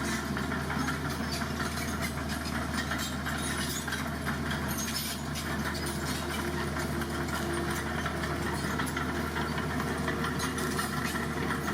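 Heavy diesel engine of a construction vehicle running steadily at an even, unchanging pitch.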